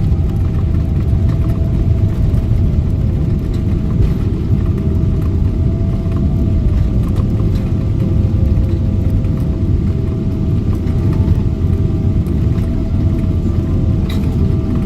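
Steady cabin rumble of a Boeing 777-300ER's GE90 engines and airflow, heard from inside the passenger cabin, with a faint steady whine above it.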